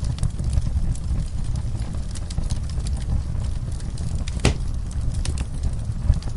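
Wood fire crackling in a fireplace: scattered small snaps and one louder pop about four and a half seconds in, over a steady low rumble.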